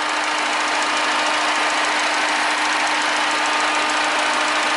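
Citroën C5 diesel engine running steadily at raised revs during a forced particulate-filter regeneration, with the electric radiator fan running because the hot filter has triggered it. A loud, even running noise with a steady hum.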